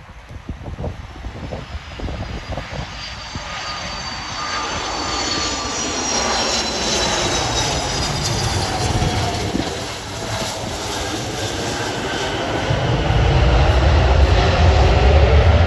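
Aircraft engines approaching and growing louder, a high whine sliding slowly down in pitch, with a deep rumble building to its loudest over the last few seconds.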